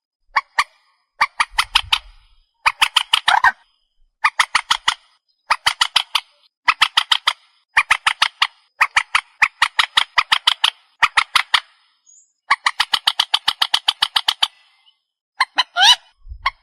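Trích ré bird calling, likely a rail-family waterbird: repeated bursts of rapid, harsh, rattling notes, each burst about a second long with short gaps between, one longer burst about two-thirds through, and a few rising, gliding notes near the end. This is the call played back as a lure.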